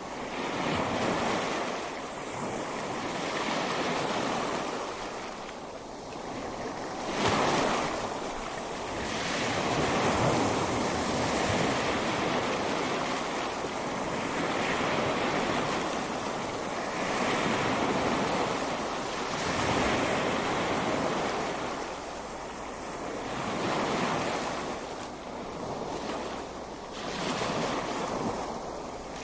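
Ocean surf breaking on a beach, a continuous wash that swells and recedes every few seconds, with a louder breaking wave about seven seconds in.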